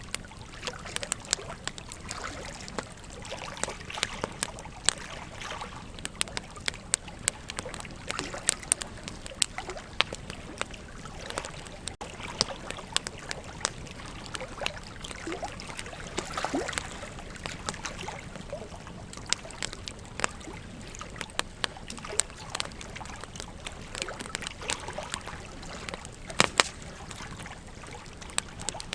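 Wood campfire crackling, with frequent sharp pops and snaps scattered irregularly, over the steady rush of river water.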